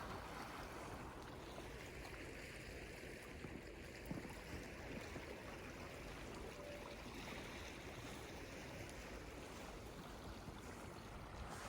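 Faint, even wash of lake water against the shore.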